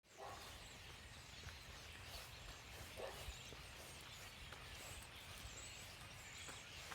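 Faint, high-pitched chirps from small birds over a steady low rumble of background noise, with the clearest calls about five to six seconds in.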